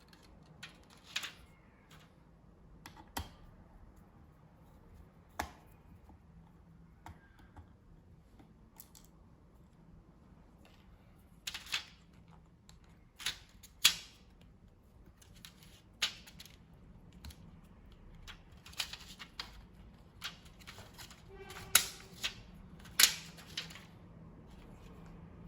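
Irregular small clicks and taps of laptop parts and tools being handled, a few seconds apart at first and coming more often in the second half.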